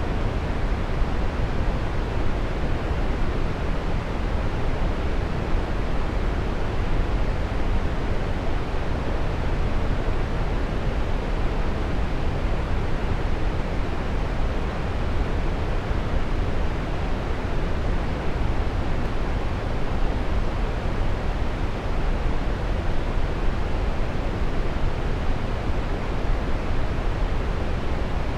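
Waterfall: falling water rushing steadily, a dense unchanging roar with no separate splashes.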